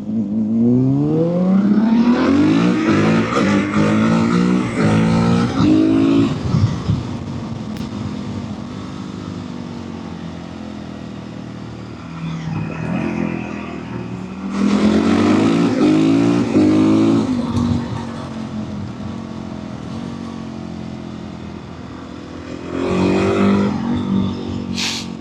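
Motorcycle engine accelerating hard through the gears, its pitch climbing and dropping back at each shift. This happens three times: from the start, about fifteen seconds in, and near the end, with steadier cruising between.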